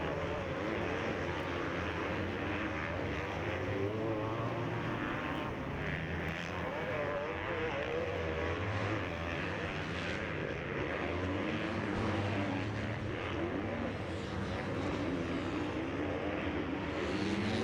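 Motocross bike engines revving, their pitch rising and falling over and over as the riders work the throttle around the track.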